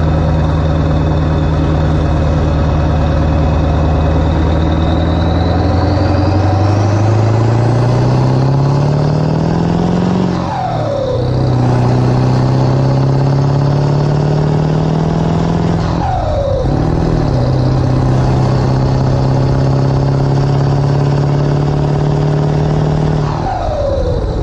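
A Ford 7.3 L Powerstroke turbo-diesel V8 with 160/30% injectors pulling through the gears. The engine pitch climbs with a high whistle rising alongside it, drops at a gear change about ten seconds in, climbs again and drops at a second shift around sixteen seconds. It then holds steady before dropping once more near the end.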